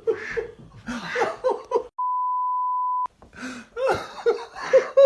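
A single steady 1 kHz censor bleep lasting about a second, starting about two seconds in, with all other sound cut out beneath it: an edited-in tone masking a swear word. Short vocal sounds come before and after it.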